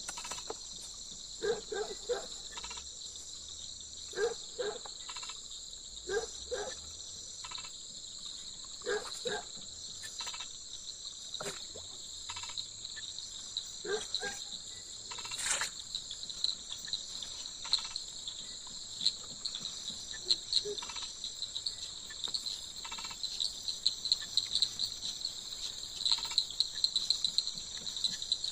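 Steady chorus of crickets and other insects: a continuous high trill with a still higher hiss above it, which toward the end turns into fast pulsing chirps. Short separate sounds are scattered through it, some of them frog calls.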